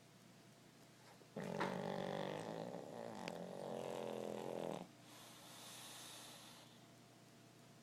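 Pug snoring in deep sleep: one long, buzzing snore of about three and a half seconds, then a softer, hissing breath.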